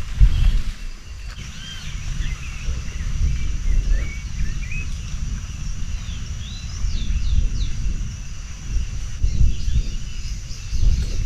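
Wind buffeting the microphone in gusts, with several birds chirping short calls.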